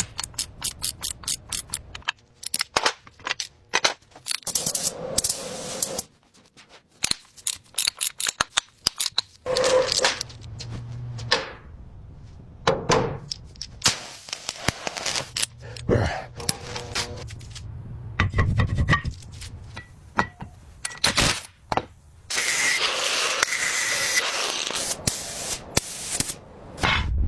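Small hard parts being handled and worked on: runs of sharp clicks and taps, with a stretch of steady scraping or rubbing near the end.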